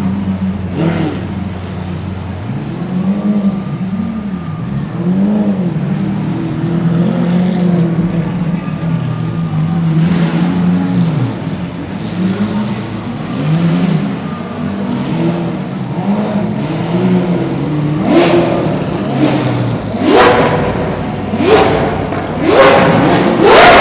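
Lamborghini supercar engines idling and being blipped, their pitch swelling and falling in a string of short revs. From about 20 seconds in, several hard revs climb steeply in pitch and grow louder.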